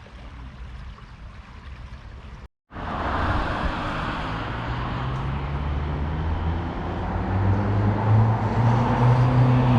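A steady engine drone with a rushing noise, growing louder toward the end. It follows a quieter low rumble and a cut to silence about two and a half seconds in.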